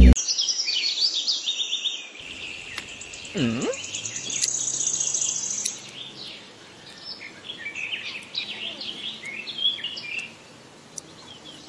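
Birds chirping and twittering in many short, quick calls, with a steady high whistling tone under them for the first half. A brief low swooping tone dips and rises about three and a half seconds in.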